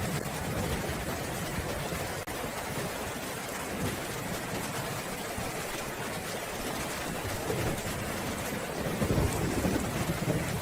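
Steady heavy rain hissing, with low rolling thunder rumbling underneath that swells louder near the end.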